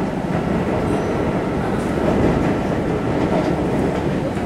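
Running noise inside a Kintetsu 1259 series electric train's motor car: a steady rumble of wheels on rails, with a few faint rail-joint clicks.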